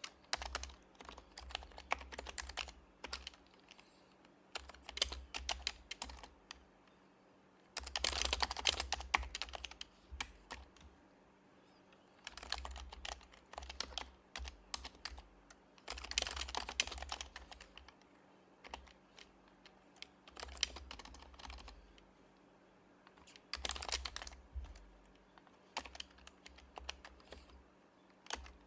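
Typing on an HHKB Professional HYBRID Type-S keyboard with its silenced Topre capacitive switches: runs of quick, soft keystrokes broken by short pauses, the densest run about eight seconds in.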